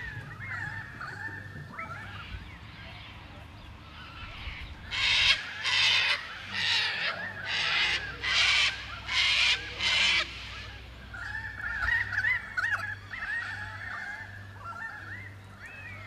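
A bird giving a run of about seven loud, harsh calls, evenly spaced a little under a second apart, from about five seconds in until about ten seconds in. Softer twittering of smaller birds comes before and after the run.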